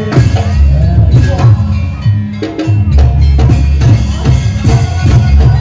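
Live jaranan music played loud over a sound system: a Javanese percussion ensemble of drums, gongs and small metal knocking percussion in a steady driving rhythm, with a heavy low pulse underneath.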